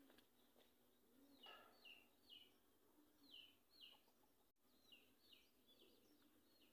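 Faint bird chirps, short calls that drop in pitch, repeated in quick runs of two or three, over a quiet outdoor hiss.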